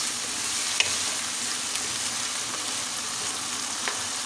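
Keema (minced meat) with onions and spices sizzling as it fries in oil in a non-stick wok, stirred with a wooden spatula. There is a steady hiss, and two light clicks where the spatula meets the pan, about a second in and near the end.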